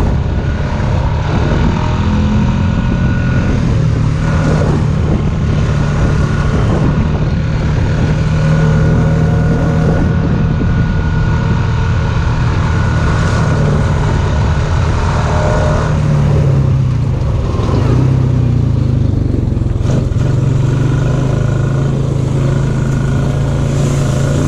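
Engine of a small Honda off-road machine running steadily under way, its pitch shifting a little now and then with the throttle.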